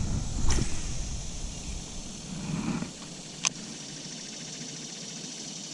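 Insects buzzing steadily. In the first three seconds there is a low rumble of handling or wind on the microphone, and a single sharp click comes about three and a half seconds in.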